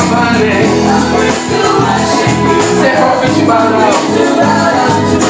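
Live gospel worship music: a band playing between the singer's lines, with steady organ or keyboard chords, a bass line and light percussion.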